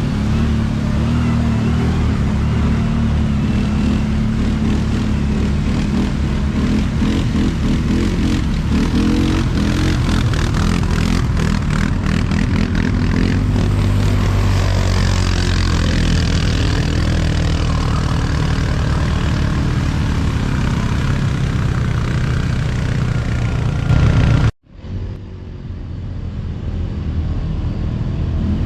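Quad-bike (ATV) engine running hard on a dirt track, a steady loud drone. The sound cuts out abruptly near the end and then comes back, building up over a few seconds.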